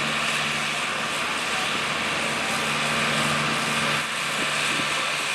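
Tractor engine running steadily under load, pulling a weight-transfer sled.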